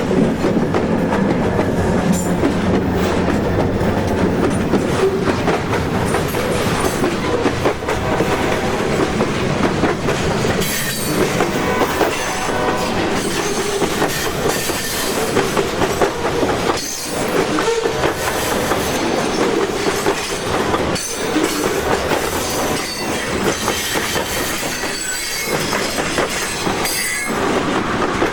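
Portland & Western freight train passing close by: a heavy rumble of the locomotives at first, then the freight cars rolling past with wheels clattering over rail joints and squealing at times.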